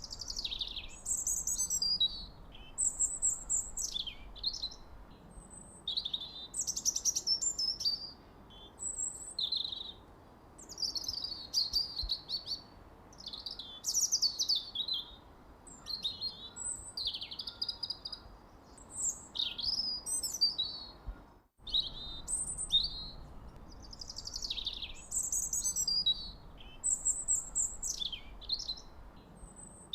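Songbirds chirping and singing continuously in short, overlapping high-pitched phrases of quick falling sweeps and trills, over a faint background hiss. The sound cuts out for a split second about two-thirds of the way through.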